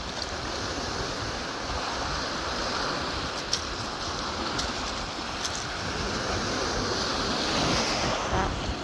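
Lake waves washing steadily onto a stony beach, with wind buffeting the microphone and a few faint clicks of stones in the middle.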